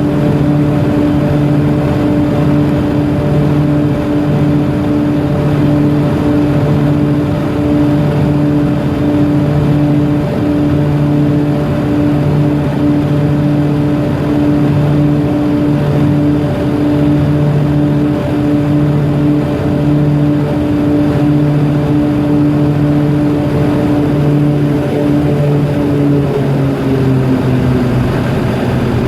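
Propeller aircraft engines droning steadily, with a slow regular pulsing beat in the low hum. Near the end the drone drops in pitch as power is brought back.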